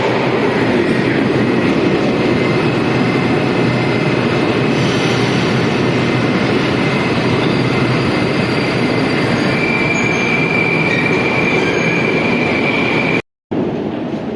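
Moscow metro train running on the rails: a loud, steady rumble of wheels and car noise, with a high wheel squeal from about ten seconds in. Just before the end the sound cuts out for a moment, then comes back quieter.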